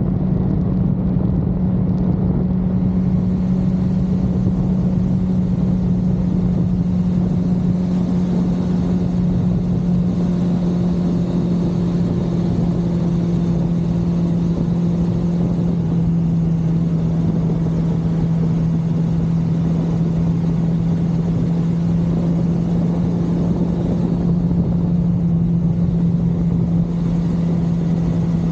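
1982 Suzuki GS550L's air-cooled inline-four engine running at a steady cruise, its pitch easing slightly lower about halfway through and then holding.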